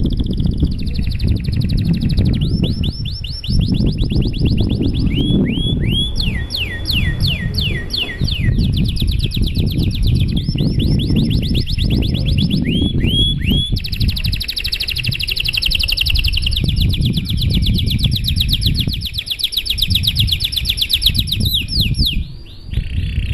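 Domestic canary singing a long unbroken song of fast trilled tours, the phrase changing every second or two between rapid rolls and runs of down-sweeping notes, over a steady low rumble.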